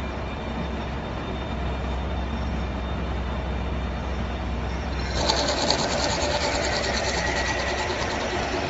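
CNC gantry milling machine running with a steady low hum; about five seconds in, a louder, higher, rapid rattling machining noise starts and carries on.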